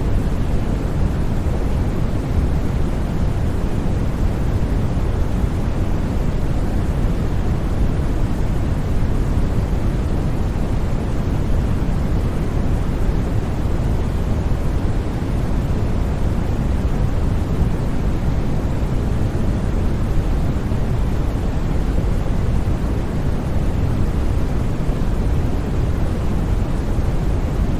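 Steady, unbroken white noise for sleep: a constant deep hiss, heaviest in the low end.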